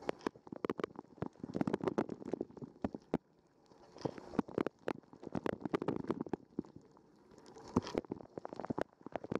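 Dishwasher wash water spraying onto and sloshing around a waterproof camera housing, heard muffled from inside the housing: dense pattering and sharp droplet hits that swell and fade about every two seconds.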